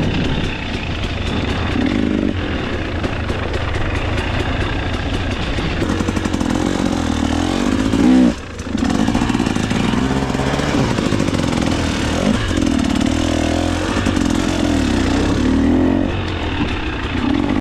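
KTM 300 XC-W two-stroke single-cylinder dirt bike engine running under constantly changing throttle on trail. About eight seconds in it revs up sharply, then the throttle is briefly chopped before it picks up again.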